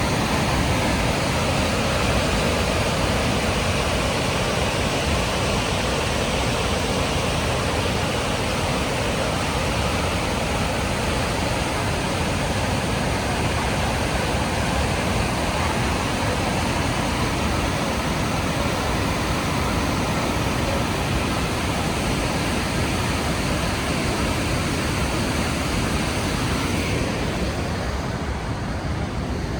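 Steady roar of the Rhine Falls, a large river waterfall: a dense, unbroken rush of falling water. Near the end the hiss becomes a little duller.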